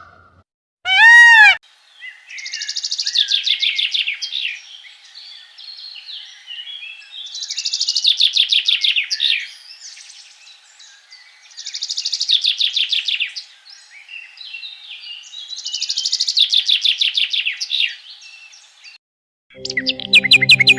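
A single short, loud call that rises and falls in pitch about a second in, then a songbird singing the same fast trilled phrase of quick falling notes four times, about four seconds apart.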